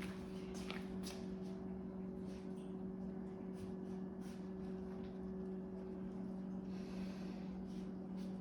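Puppies playing with a ball: scattered faint clicks and knocks, with a short scuffle a little before the end, over a steady low hum.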